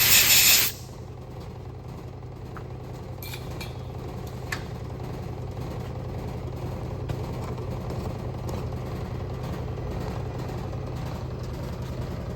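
A short blast of compressed-air hiss that cuts off under a second in, then a steady low machine hum with a few faint light clicks.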